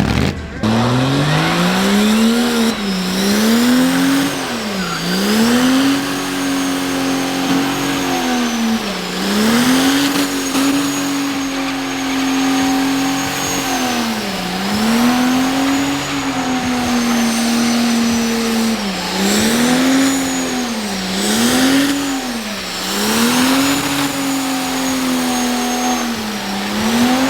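Diesel truck engine revved hard and held near the top of its range during a burnout, the pitch dipping and climbing back again every second or two.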